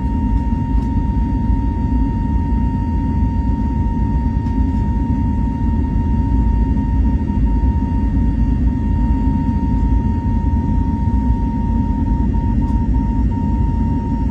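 Steady cabin noise inside a jet airliner in flight: a constant low rumble with a thin, steady high tone over it.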